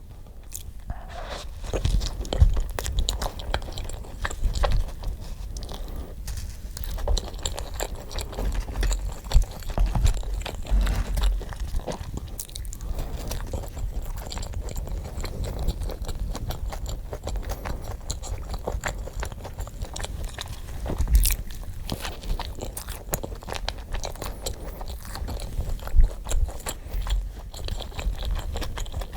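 Close-miked eating: bites, crunching and chewing of crisp food, going on irregularly with louder bites now and then.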